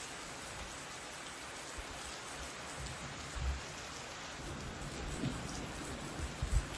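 Steady hiss of heavy rain falling, with a few short low thuds of wind gusting on the microphone about halfway through and near the end.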